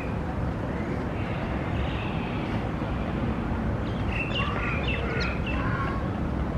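Steady background rumble of city traffic, with a short run of chirping bird calls about two-thirds of the way through.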